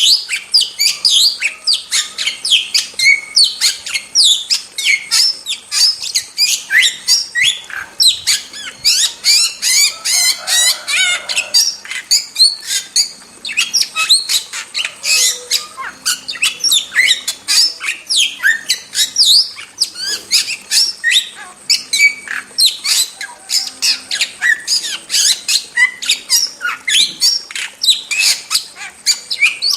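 Starling calling without pause: a fast run of sharp, falling whistled chirps, several a second, with a harsher, buzzier stretch around ten seconds in.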